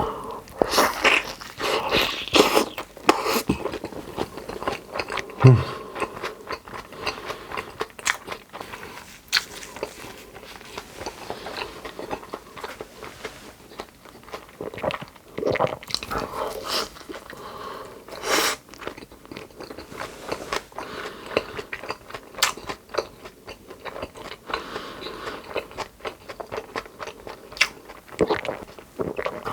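Close-miked eating: a person biting and chewing crunchy food with wet, crackling mouth sounds, in irregular bites and chews.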